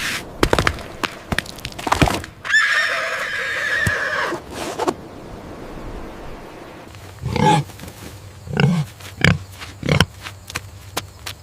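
Farm animal calls: one long, high, steady call lasting a couple of seconds, then a run of short, low grunts about two-thirds of the way through.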